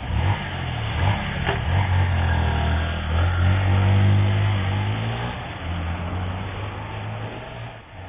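A motor vehicle engine running loud under acceleration. Its pitch shifts as it speeds up, and it eases off near the end.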